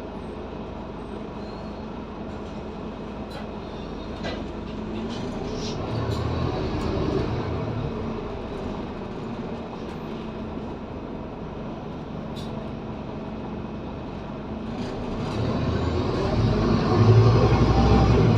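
Scania N230UD double-decker bus's five-cylinder diesel engine heard from inside the bus, running under load. It pulls harder about six seconds in, eases off, then builds again over the last few seconds as the bus accelerates, with a few sharp clicks and rattles along the way.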